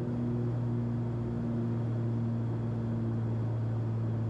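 The Cessna 340's twin turbocharged Continental six-cylinder engines and propellers droning steadily at about 2,500 RPM in level cruise, heard from inside the cockpit as an even, low hum.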